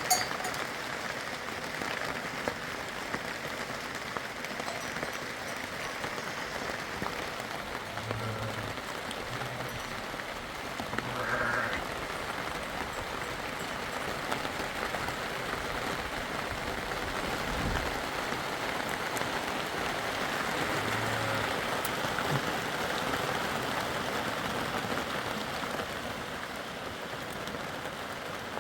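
Steady rain falling, an even, unbroken hiss, with a brief louder sound about eleven seconds in.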